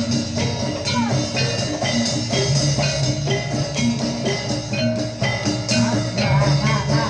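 Jathilan accompaniment music: a gamelan-style ensemble of struck metal pitched percussion and drums playing a steady, repeating rhythm.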